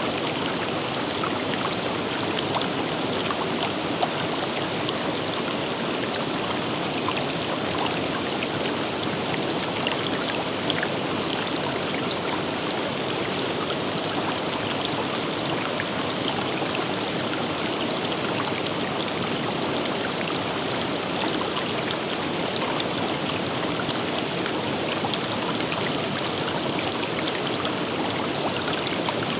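A forest river flowing steadily, a continuous rush of water with many small splashes and drips.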